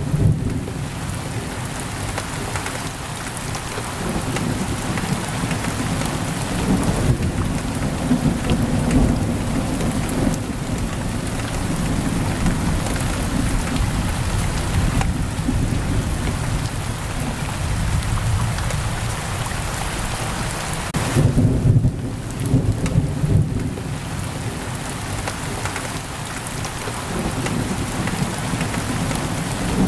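Heavy rain pouring steadily on a window, with low rolling thunder that swells up near the start, again about eight seconds in and more strongly a little past twenty seconds.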